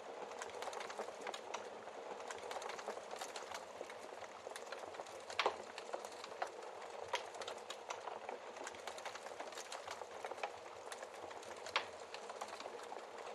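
Wood fire crackling steadily, with frequent small snaps and a few louder pops from the burning logs.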